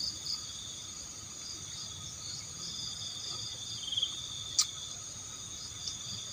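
Night insect chorus: crickets chirring steadily at several pitches at once, with a short trill about four seconds in and a single sharp click just after.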